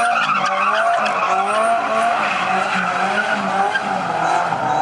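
A car doing donuts: tyres screeching continuously while the engine revs, its pitch rising and falling over and over.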